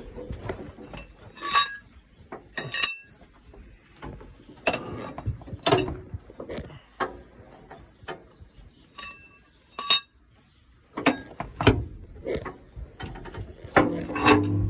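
Steel dual-wheel hooks clinking and clanking as they are handled and set down, a series of separate metal knocks, several of them ringing briefly.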